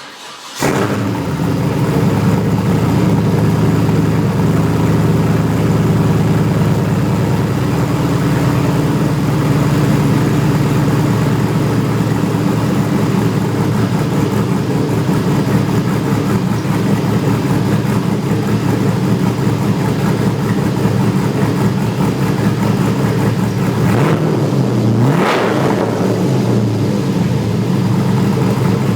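LS1 5.7-litre V8 in a Mazda Miata catching within the first second and then idling steadily through a true dual 3-inch exhaust with headers, MagnaFlow spun-metal catalytic converters and Vibrant bottle-style resonators. Two quick throttle blips near the end, the pitch rising and falling.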